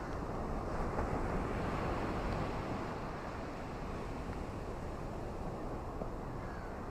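Ocean surf and steady rain: a continuous wash of noise that swells briefly during the first couple of seconds.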